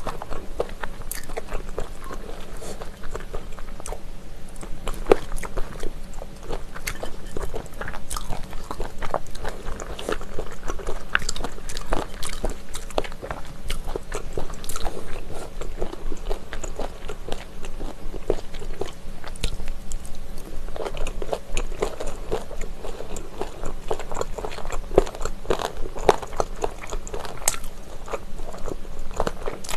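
Close-miked chewing of spicy chicken feet (buldakbal): many short crisp crunches of cartilage between the teeth, with wet chewing in between, busiest near the end.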